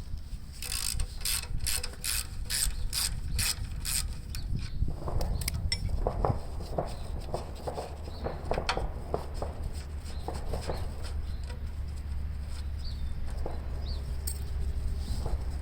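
Socket ratchet clicking as a nut is turned, a run of evenly spaced clicks about three a second for the first few seconds, then scattered lighter clicks and metal clinks as the work goes on. A steady low hum runs underneath.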